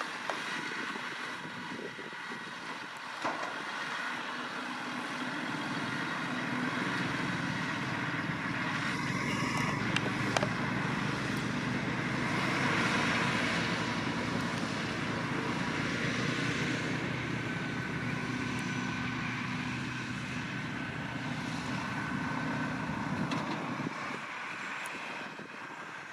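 Massey Ferguson 7620 tractor's engine running under load, pulling a McHale V660 round baler as it works. The sound grows louder toward the middle and fades again as the outfit passes.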